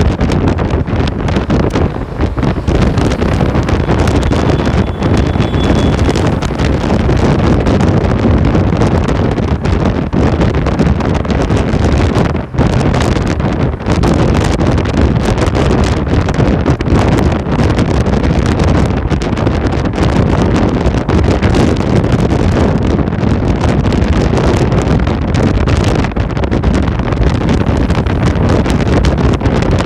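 Loud, steady wind rushing and buffeting on the microphone of a rider in motion, heaviest in the low end.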